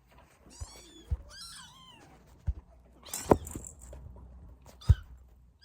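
Week-old kittens mewing, two high, wavering cries in the first two seconds, with several sharp knocks scattered through.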